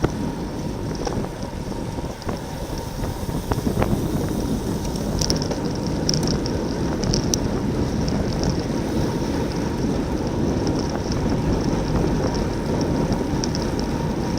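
Wind rushing over the microphone of a bicycle-mounted camera at racing speed, a steady low rumble with road and tyre noise underneath, and faint high flickering from the bike in the middle of the stretch.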